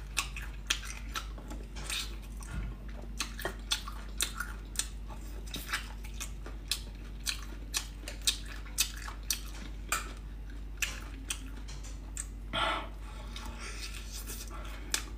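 Close-miked chewing and lip-smacking on braised beef and bone marrow, with short wet smacks every second or so.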